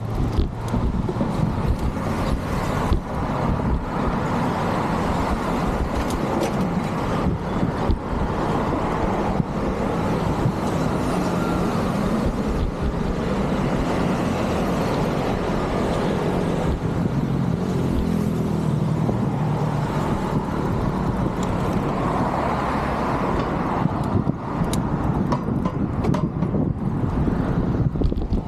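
Steady road traffic noise, with scattered short knocks.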